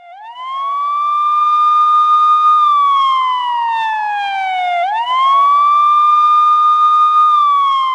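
Police car siren on a slow wail: the tone rises, holds high, then glides slowly down, and rises again about five seconds in. It is the siren of a traffic stop for speeding.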